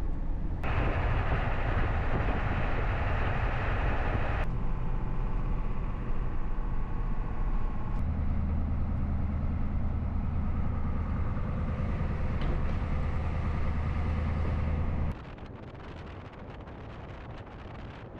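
Truck driving: steady engine and road noise from inside the cab, changing abruptly several times as if cut together, and much quieter about fifteen seconds in.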